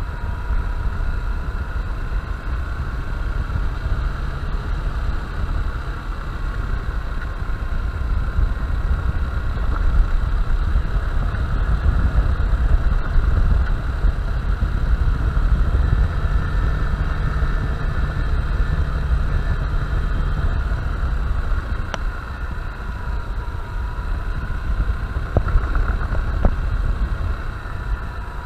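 Honda Bros 160 single-cylinder motorcycle engine running steadily while riding, under a heavy low rumble of wind on the microphone.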